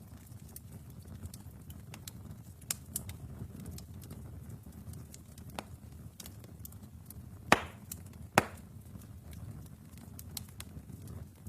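Wood fire burning in a fireplace: a low steady rumble of flame with scattered sharp crackles and pops, two of them much louder a little past the middle.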